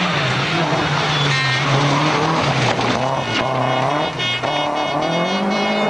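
Toyota Celica GT4 ST165's turbocharged 3S-GTE four-cylinder engine running hard, its revs falling and rising with the throttle and climbing near the end.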